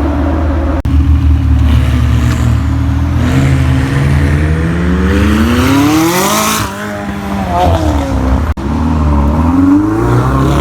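McLaren 720S twin-turbo V8 engine revving under acceleration. Its pitch climbs steadily for about three seconds to a peak midway, falls away, then rises briefly again near the end.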